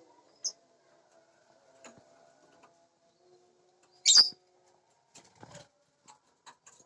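Lovebirds calling: a short high chirp, then one loud, sharp call about four seconds in, and a few softer chirps and clicks near the end.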